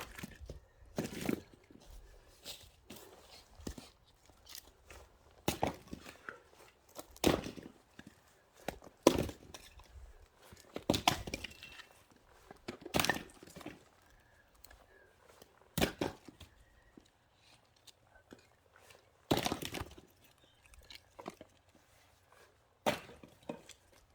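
Axe splitting firewood: a dozen or so sharp strikes at uneven gaps of one to three seconds, each a hard knock as the blade bites and the wood cracks apart.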